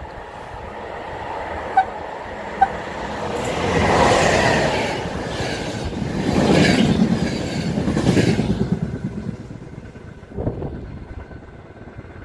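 Trenitalia Intercity passenger train passing at speed: a rising rush of wheels and air that peaks twice, with fast wheel clatter over the rail joints, then fades away. Two short, sharp pips come about two seconds in, before the train arrives.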